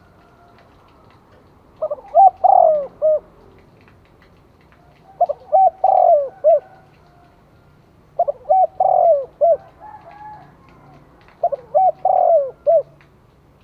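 Spotted dove cooing: four phrases of several notes each, repeated about every three seconds, with a fainter call between the last two. This is the decoy dove's call used to lure wild doves.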